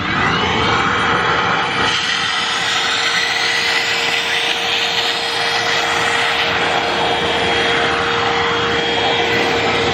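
Bobbot cordless stick vacuum cleaner switched on, its motor spinning up with a rising whine, then running steadily with a high hum and rushing air as it sucks on its standard suction head.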